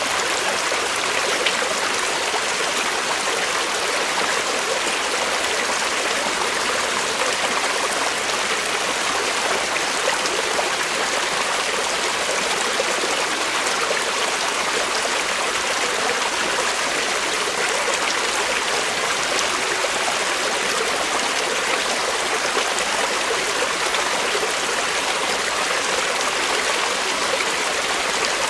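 Creek water flowing over rocks in a steady, even rush.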